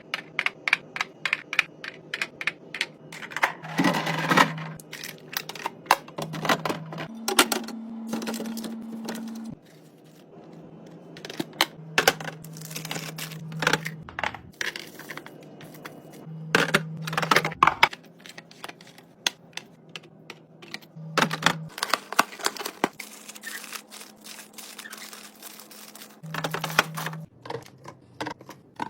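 Containers, jars and packaging being handled and set down while a fridge is organized: many quick clicks, taps and clatters, with a louder clatter now and then. A low hum comes and goes.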